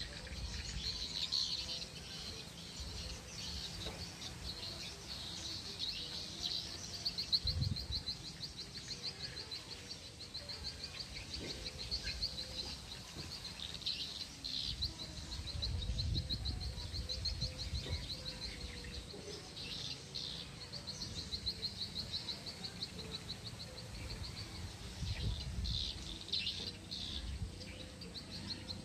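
Birds chirping in rapid, high-pitched trills that come in repeated runs, over an uneven low rumble.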